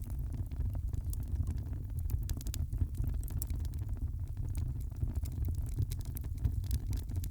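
Fire in a fireplace crackling: many small sharp pops and snaps over a steady low rumble of burning.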